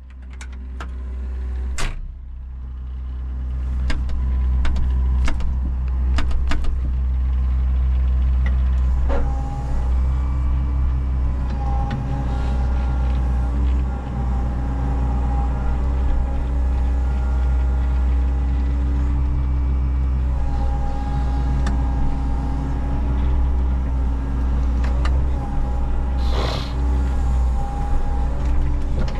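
Menzi Muck walking excavator's diesel engine running steadily under work, with a higher whine coming and going and several sharp knocks and clunks in the first few seconds.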